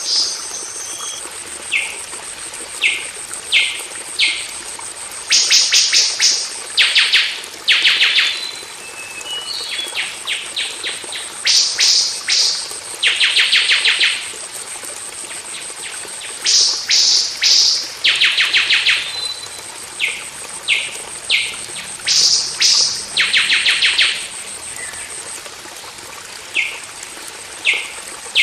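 Golden oriole calling over and over: short sharp notes mixed with longer harsh, rasping phrases of about half a second to a second, in clusters separated by brief gaps. A steady thin high tone runs behind, dropping out twice.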